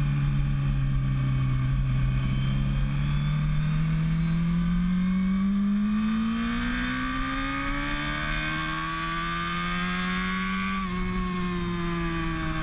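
A race vehicle's engine on a track under steady acceleration. The pitch sags slightly at first, then climbs for several seconds. About eleven seconds in, an upshift drops the pitch sharply.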